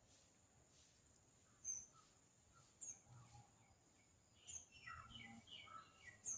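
Faint bird chirps: a short high chirp every second or two, with a brief run of lower, falling notes a little after the middle.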